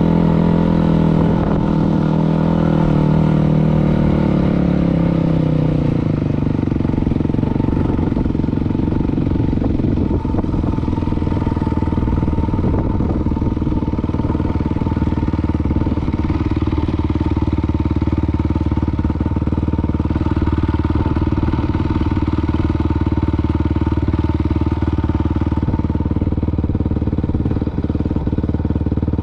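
Dirt bike engine running, its pitch falling over the first six seconds or so as the revs drop, then running steadily at a lower pitch.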